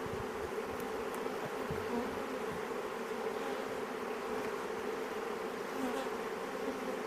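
Honeybee swarm buzzing steadily: thousands of worker bees from a newly installed package colony flying around the hive.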